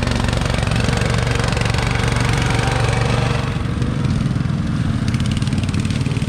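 Off-road vehicle engine running steadily with a low drone; the higher engine noise eases off a little about halfway through.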